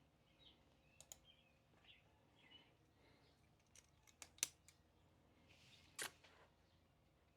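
Near-silent room with a few small sharp clicks and taps, the loudest about four and a half seconds in, and a short scrape or rustle about six seconds in. Faint high bird chirps in the first few seconds.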